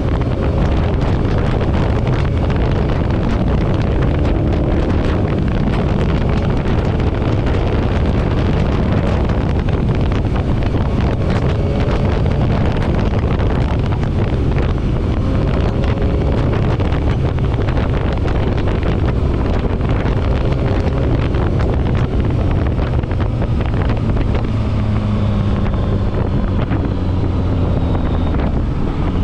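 Motorcycle engine running at steady road speed under heavy wind rush on the microphone. Near the end the engine note drops slightly.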